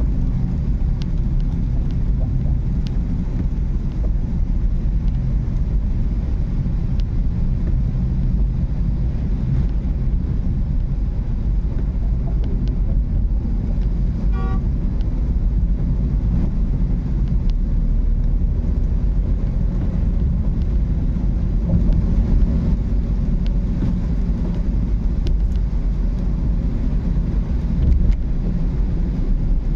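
Car driving on a rainy road, a steady low rumble of engine and tyres, with a short horn honk about halfway through and a brief louder bump near the end.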